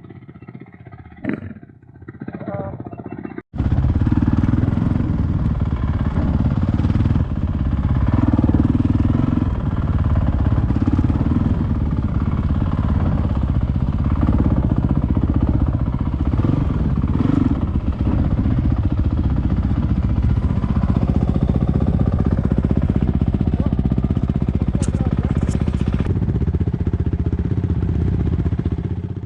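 Enduro motorcycle engine running steadily while riding, loud and continuous. About three seconds in, it begins abruptly after a quieter stretch.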